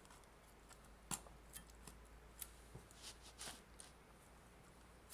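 Faint, scattered small clicks and scrapes of a tool working at the Nintendo Switch AC adapter's welded plastic case as it is pried open, with about half a dozen sharp ticks spread over a few seconds.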